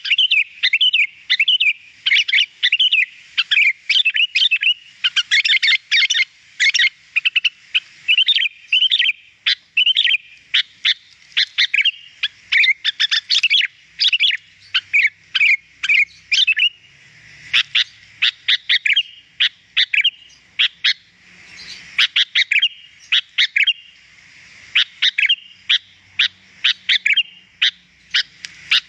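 Sooty-headed bulbul (kutilang) singing persistently: a fast, almost unbroken stream of sharp chirping and warbled notes, with only short pauses.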